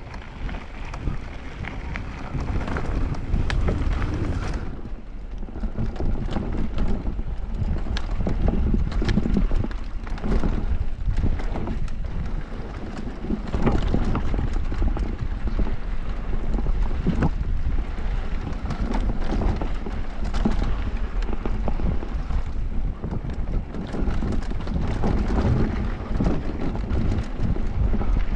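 Wind rushing over an action camera's microphone during a downhill mountain-bike run, over a low rumble of tyres on dirt and the bike rattling and knocking over rough trail. It gets louder about five seconds in.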